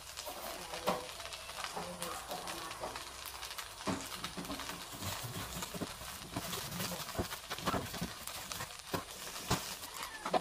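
Fried rice vermicelli and bean sprouts cooking in a hot wok: a low sizzle with an irregular run of crackling pops and ticks.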